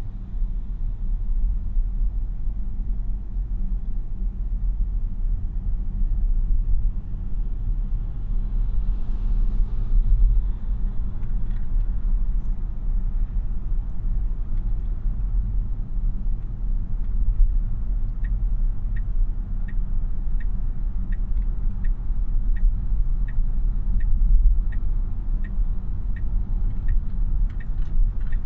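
Cabin noise inside a Tesla Model Y electric SUV on the move: a steady low road and tyre rumble with no engine note. From about two-thirds of the way in, an even ticking starts at roughly three ticks every two seconds, the turn-signal indicator clicking.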